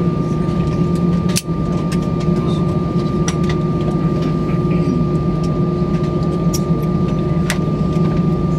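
Cabin noise inside an Airbus A319 with its CFM56 engines running: a steady rumble and hiss with a thin, steady high whine, and a few light clicks and rattles. The noise drops out for an instant about one and a half seconds in.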